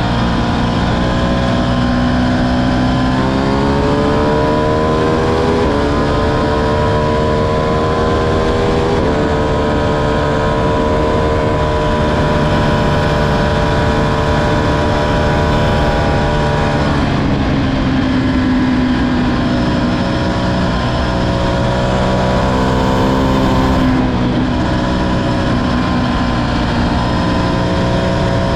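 Ducati Streetfighter V2's 955 cc L-twin engine pulling under way, its pitch climbing and stepping down several times in the first ten seconds as it is shifted up through the gears. It then holds a steady pitch, drops sharply about seventeen seconds in, and builds again, over steady wind rush.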